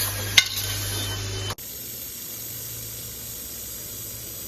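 Handheld laser welding machine at work: a steady hiss over a low hum, with one sharp click near the start. About one and a half seconds in it cuts off abruptly, and a quieter, steady hiss follows.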